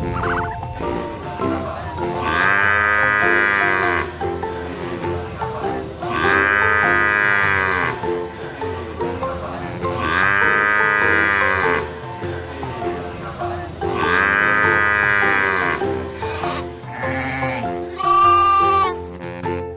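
Bleating calls over background music: four long calls, evenly spaced about every four seconds, then a shorter, wavering one near the end.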